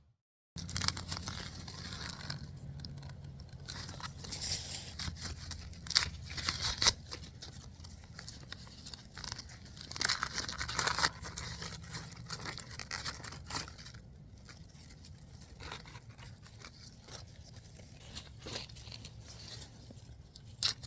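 Dry, end-of-season corn husks and leaves crackling, rustling and tearing as ears of glass gem corn are pulled from the stalks and husked, with a few louder bursts of tearing.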